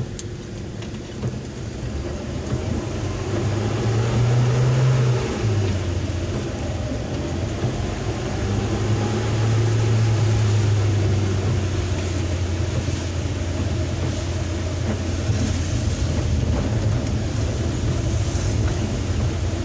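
Suzuki Carry Futura pickup's engine and road noise heard inside the cab while driving. The engine note climbs, drops suddenly about five seconds in, then rises again and holds steady, with a steady hiss over it.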